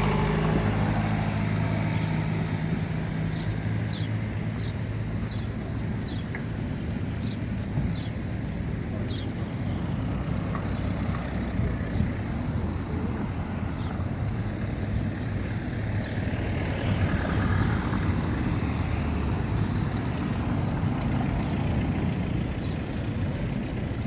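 Car driving: steady engine and road rumble throughout, with a run of short, faint, high chirps in the first ten seconds.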